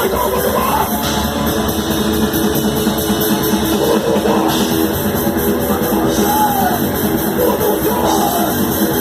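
Heavy rock band playing: distorted electric guitar over a drum kit with steady cymbal work.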